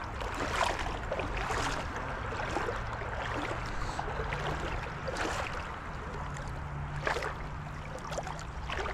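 Creek water sloshing and splashing around legs wading through it, with irregular splashes over the steady run of the water.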